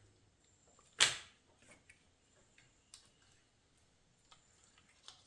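A single sharp knock about a second in, with a short ring after it, then a few faint clicks: hand tools or parts being handled on the transmission being taken apart.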